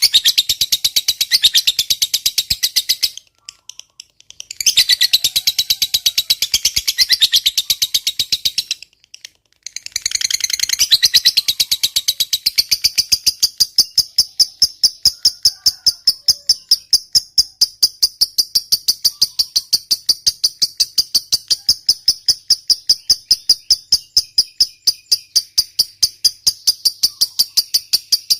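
Lovebird's 'ngekek panjang': a long run of rapid, evenly repeated shrill chattering notes. It breaks off twice briefly in the first ten seconds, then runs on as one unbroken even series.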